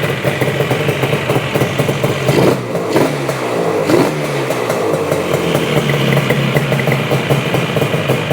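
Yamaha RD400's air-cooled two-stroke parallel twin running, with a few quick blips of the throttle about two to four seconds in before settling back to a steady run. It is running really well after its repairs.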